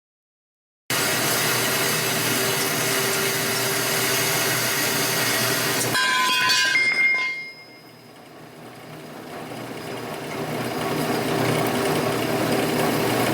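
Johnson metal-cutting band saw running through steel tube: a steady mechanical sawing noise that starts abruptly about a second in. About six seconds in there is a short higher ringing. The sound then drops away and builds back up over the next few seconds.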